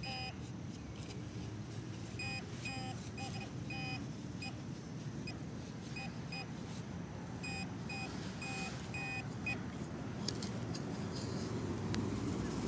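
Metal detector beeping in short quick pulses, in clusters of several beeps a second, as it is passed over a buried target while digging. Low rumble and handling noise run underneath.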